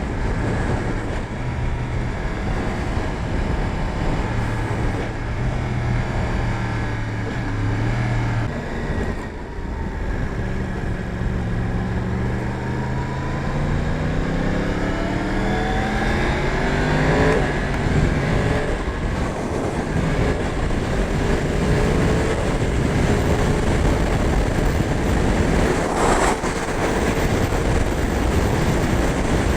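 2024 Yamaha R1's crossplane inline-four engine on the move under a steady rushing noise. It holds a steady speed, eases off briefly around nine seconds, then pulls with its pitch rising for about seven seconds. The pitch drops sharply at an upshift and climbs again, then settles to a steady, higher-pitched cruise.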